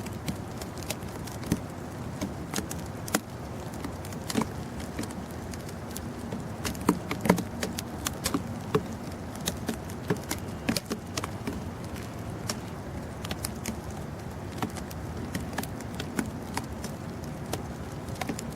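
Outdoor blizzard ambience: a steady low rumble with many scattered sharp ticks and patters, thickest and loudest about seven to eleven seconds in.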